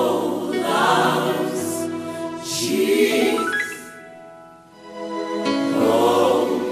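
Gospel music with a choir singing; the singing drops away about two-thirds through and comes back.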